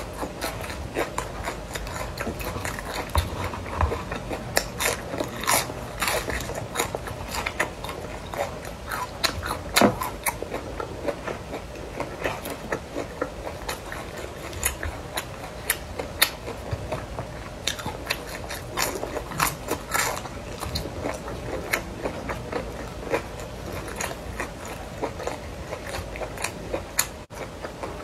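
A person biting and chewing crispy deep-fried pork intestine, with many irregular crisp crunches and wet mouth clicks.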